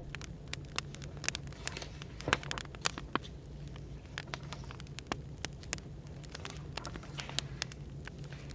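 Wood fire crackling, with irregular sharp pops several times a second, a few louder ones, over a steady low hum of background noise.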